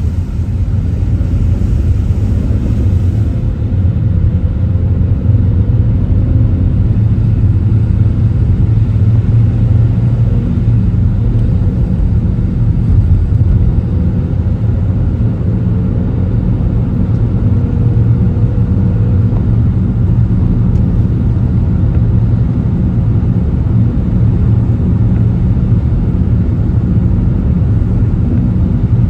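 Steady low rumble of a car driving: engine and road noise, loud and unbroken.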